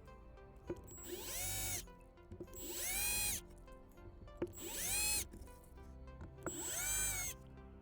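Power drill run in four short bursts, each spinning up and winding down, drilling small holes along the broken dovetail joint of a 3D-printed R2-D2 leg. Background music plays underneath.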